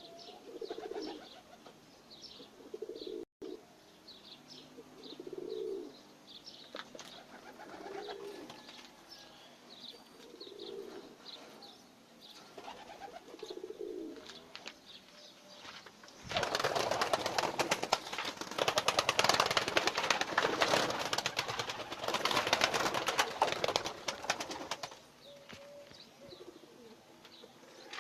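Najafi fancy pigeons cooing, a low coo repeating every two to three seconds, with small birds chirping high above it. From about halfway through, a loud stretch of dense rustling noise lasts about nine seconds, then the cooing returns.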